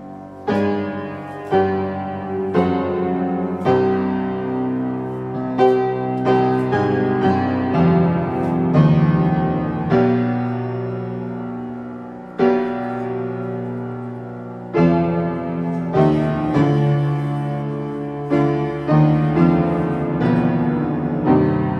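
Slow piano music: chords and single notes struck about once a second, each left to ring and fade before the next.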